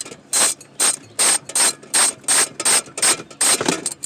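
Hand ratchet on a wobble extension clicking in short, quick back-and-forth strokes, about three a second, as it backs out a nut holding the engine computer.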